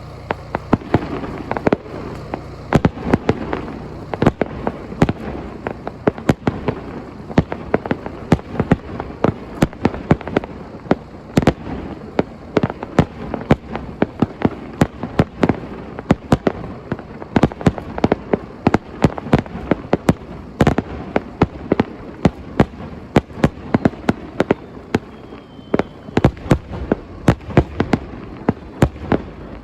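Fireworks going off: a dense, irregular string of sharp bangs and pops, several a second.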